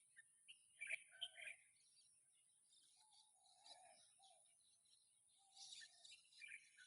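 Faint mixed birdsong: several birds chirping and calling, with a cluster of chirps about a second in, lower warbling notes around the middle and more calls near the end, over a steady high hiss.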